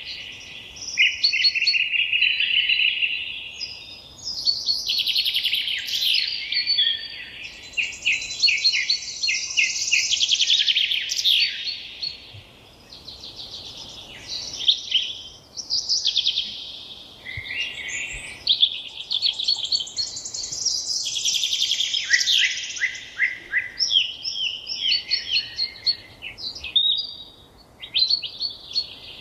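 Songbirds singing loudly, with long, rapid, varied phrases full of trills and chirps, pausing only briefly between bursts.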